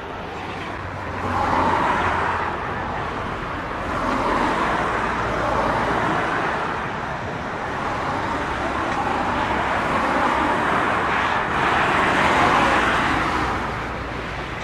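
Boeing 787-10 airliner on final approach just before touchdown: a steady rushing jet-engine noise that swells and eases several times.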